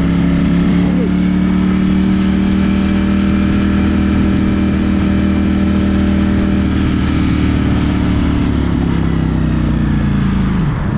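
Ducati motorcycle engine pulling at steady revs while riding, with wind noise; the revs sag slightly and then drop sharply near the end as the throttle is closed.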